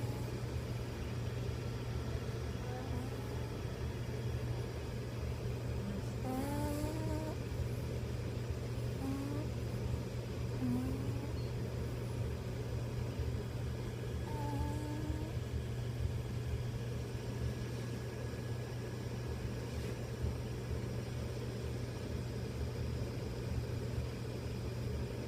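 A dog snoring under a steady low hum. A few short, high squeaks come about a quarter of the way in and again near the middle.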